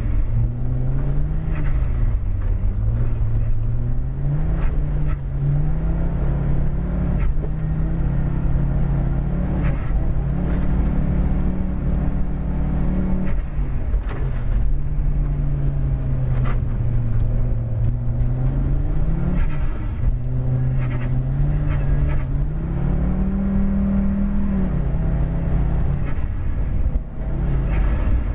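Audi car engine heard from inside the cabin, revving up and falling back again and again as the car is driven hard through bends on a snowy road, with a couple of sudden drops in revs like gear changes. Steady tyre and road rumble runs underneath.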